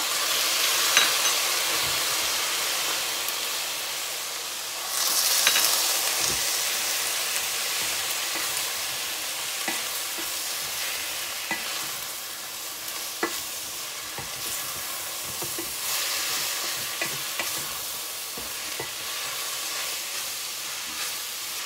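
Shredded chicken filling in a stainless steel pan sizzling and simmering as it is stirred with a wooden spoon. It is a steady hiss that swells about five seconds in, with a few light knocks of the spoon against the pan.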